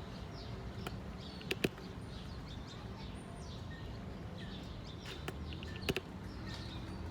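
Birds chirping in the background over a steady low hum, with a few sharp clicks of handling: a pair about a second and a half in and another near the six-second mark.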